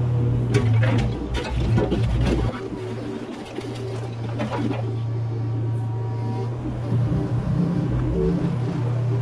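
Mini excavator engine running steadily, with a run of knocks and clatter in the first two and a half seconds as the machine works.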